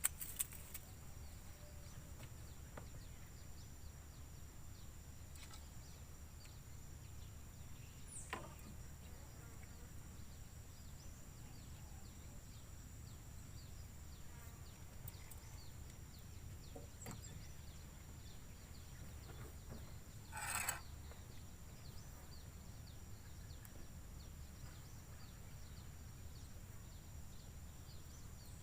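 Quiet outdoor ambience with a steady high-pitched insect drone over a low rumble. Faint scattered clicks, a short falling whistle about eight seconds in and a brief louder rustle about twenty-one seconds in.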